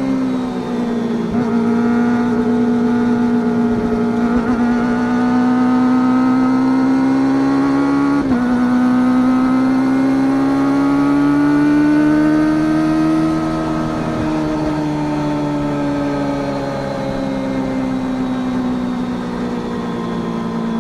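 Kawasaki Ninja ZX-25R's 250 cc inline-four running through an Akrapovič full-carbon racing exhaust, held at steady mid revs. The pitch slowly rises and falls with the throttle, with brief dips about a second in and about eight seconds in.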